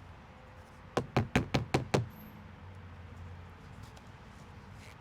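Six quick, sharp knocks in a row, about five a second, lasting about a second.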